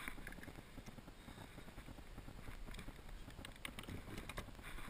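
Faint, irregular clicks and taps of hands and gear working to free a lure from a caught redfish's mouth in a kayak.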